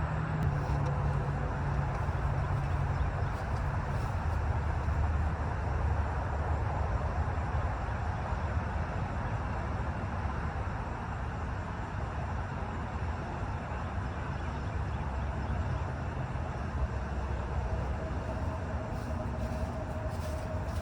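Steady low rumble of a running engine under an even rushing hiss, with a faint higher tone joining near the end.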